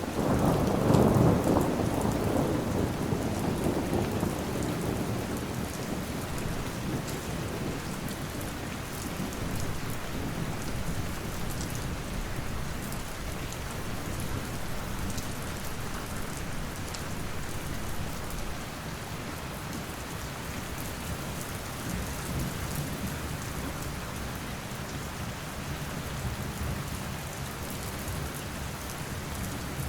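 Steady rain falling, with a roll of thunder that swells right at the start, peaks about a second in and rumbles away over the next several seconds.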